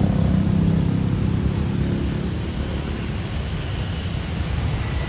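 Low, steady rumble of jet aircraft engines, with a hum of steady low tones that fades out after about a second and a half.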